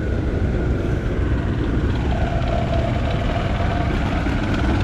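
Antique tractor engine running steadily at idle, with a steady higher tone coming in about two seconds in.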